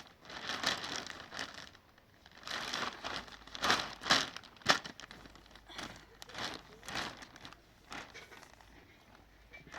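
Plastic sheeting crinkling and rustling as it is handled, in irregular bursts, with one sharp snap just under five seconds in.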